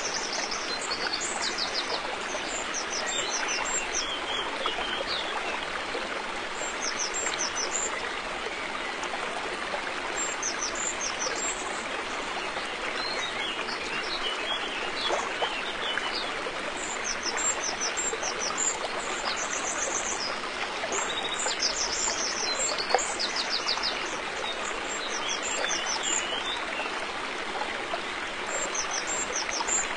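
River water flowing steadily over stones, with birds singing short high chirping phrases every few seconds above it.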